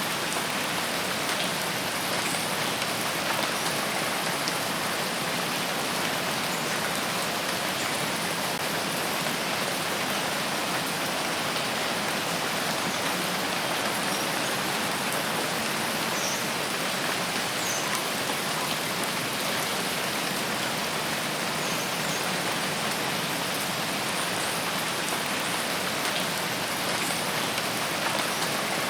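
Steady, dense rainfall: an even hiss of rain on leaves and surfaces that holds the same level throughout.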